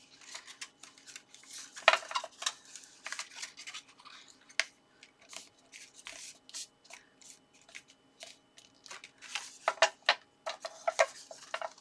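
Card stock being handled and pressed into place: a run of rustles, taps and light clicks of paper, the sharpest about two seconds in and a busier cluster near the end.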